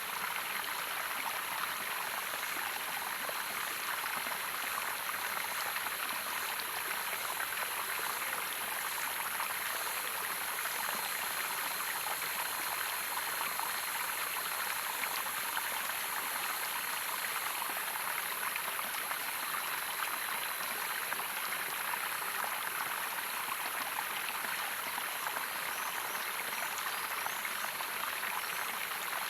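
Running water of a small waterfall, a steady, even rush that does not change.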